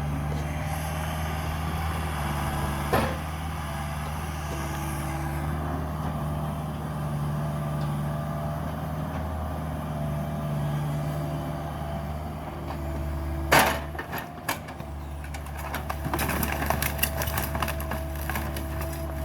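Cat 305 mini excavator's diesel engine running steadily while it tears into a wooden house. Timber cracks sharply about 3 s in and again twice around the middle, followed by a run of splintering and crackling near the end.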